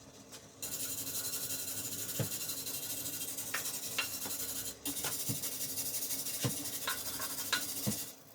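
Welding arc crackling and hissing on exhaust pipe, with scattered sharp pops. It runs in two bursts with a brief stop just before the five-second mark.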